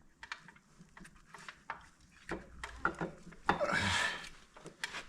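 Scattered metal clicks and taps from a piston with its rings being worked by hand into a cylinder bore of a Volvo TD 100 A diesel engine, with a longer rasping noise a little before the end.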